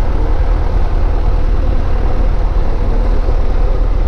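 Cessna 152's four-cylinder Lycoming O-235 engine and propeller running steadily, a loud, unchanging drone with a deep low end.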